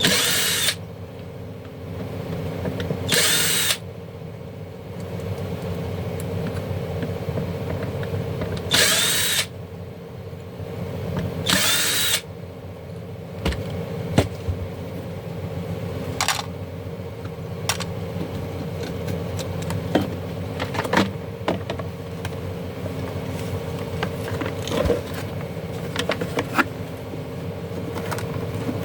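A handheld power drill running with a steady hum, with four short louder spurts in the first twelve seconds, followed by scattered sharp clicks and knocks of parts being handled.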